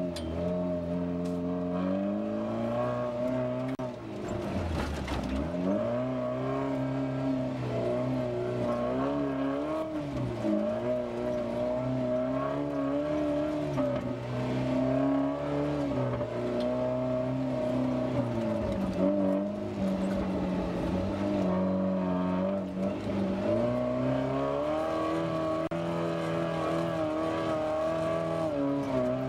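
Rally off-roader's engine heard from inside the cabin, driven hard through sand: the engine note keeps rising and falling with throttle and gear changes, with brief dips about four, ten and nineteen seconds in.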